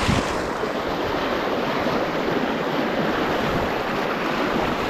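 Fast, heavy river current rushing steadily, a dense even roar of water, with a brief low thump right at the start.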